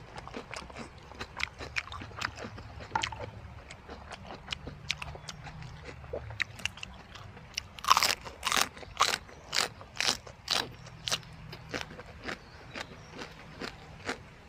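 A person chewing crunchy food close to the microphone: quiet mouth clicks at first, then a loud crunching bite about eight seconds in, followed by steady crunching chews about two a second.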